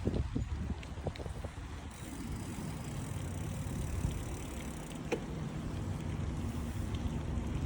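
Steady low rumble of wind and road noise from a moving bicycle, with car traffic passing and a few light clicks.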